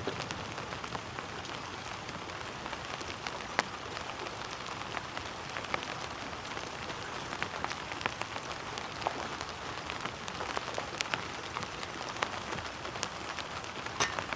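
Steady heavy rain falling, with single drops striking as scattered sharp ticks over an even hiss. A few louder clicks come right at the end.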